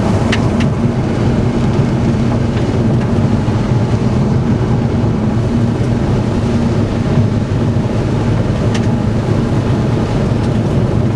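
Steady low rumble of road and wind noise inside a moving car, with a few brief clicks near the start and again about nine seconds in.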